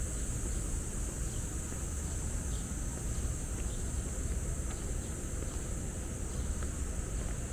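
Steady, high-pitched insect chorus of crickets or cicadas, unbroken throughout, over a low, continuous rumble.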